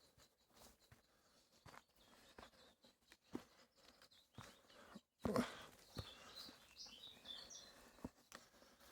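Footsteps walking up an outdoor path, faint, with a louder knock about five seconds in. Small birds chirp in the second half.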